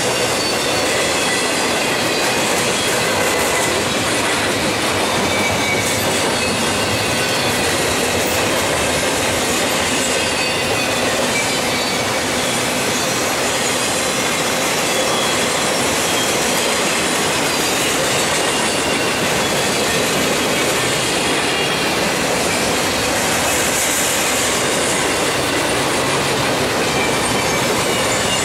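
Norfolk Southern double-stack intermodal freight cars rolling past, a steady rumble of steel wheels on rail with thin, high wheel squeal running through it.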